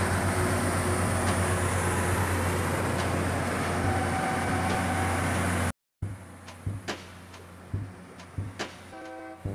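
Steady train running noise with a low hum, rail vehicles in motion. About six seconds in it cuts off abruptly, leaving a quieter background with a few knocks, and a short run of musical notes begins near the end.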